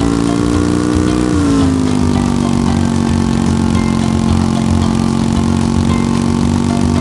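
A vehicle engine running steadily, its pitch easing up slightly and then dropping about a second and a half in before holding level.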